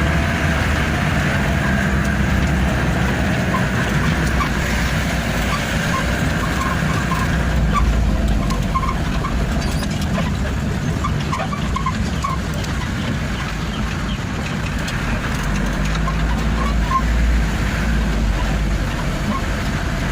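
Combine-carrier truck running on the road: a steady low engine and road rumble, with short faint ticks now and then.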